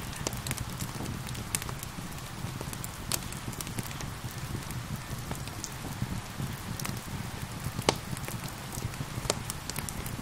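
Wood fire crackling with scattered sharp pops, one louder near the end, over a steady hiss of falling rain and a low rumble.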